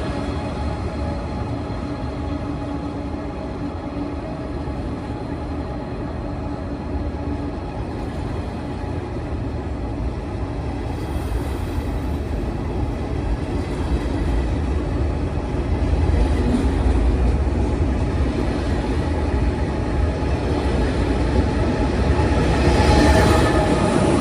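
Train running on the track with a steady low rumble and a few steady tones over it. It grows louder about two-thirds of the way in and is loudest just before the end.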